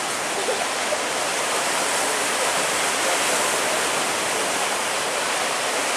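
Steady rush of sea water and wind around a boat in big waves, with no distinct engine note.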